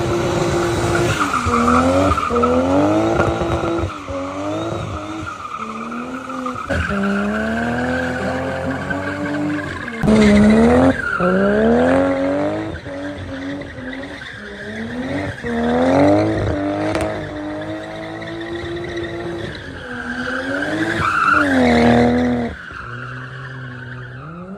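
Car engine revving up and falling back again and again, over a continuous tyre squeal. It is loudest about ten seconds in and again near the end.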